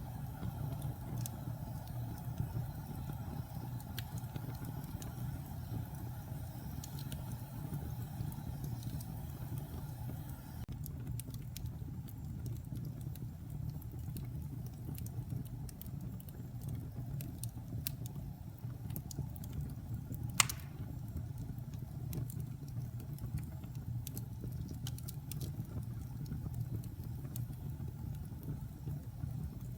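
Wood fire burning in a fireplace: a steady low rumble of the flames with scattered crackles and small pops of the burning logs, and one sharp pop louder than the rest about two-thirds of the way through.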